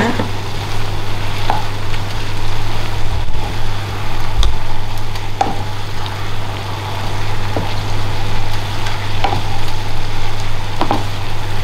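Beef, onions and chilies sizzling as they are stir-fried in a non-stick pan, the leftover broth cooking off, with a wooden spatula scraping and knocking against the pan every second or two over a steady low hum.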